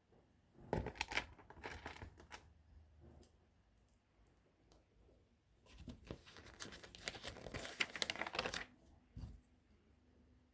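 Plastic packaging crinkling and tearing in two bursts, with light clicks of small plastic parts, followed by a single sharp click near the end.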